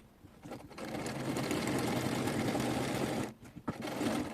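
SIGMA sewing machine stitching a folded fabric corner. It runs steadily for about two and a half seconds from just under a second in, stops, and gives a short second run near the end.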